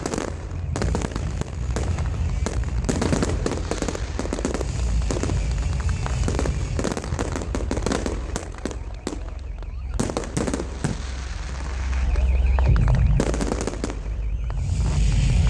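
Festival fireworks going off: a rapid, irregular stream of crackling bangs and pops over a low rumble, thinning briefly about two-thirds of the way through.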